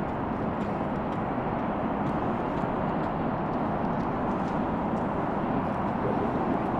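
Steady hum of heavy traffic on a busy multi-lane avenue, an even, unbroken noise with no single vehicle standing out.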